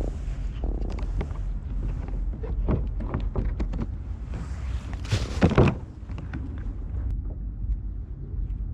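Wind rumbling on the microphone, with scattered knocks and thuds of gear being handled on a kayak, and a louder noisy burst lasting under a second about five seconds in.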